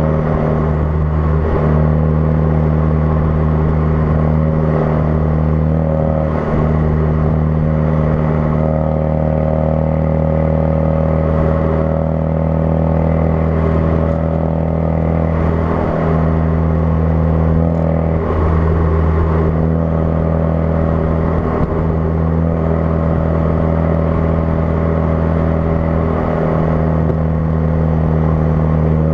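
2016 Ford Focus RS's 2.3-litre turbocharged four-cylinder running through a custom-fabricated exhaust, holding a steady engine speed with a constant drone and no revving.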